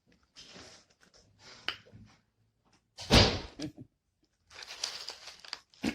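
A door shutting with a heavy thump about three seconds in, amid quieter rustling.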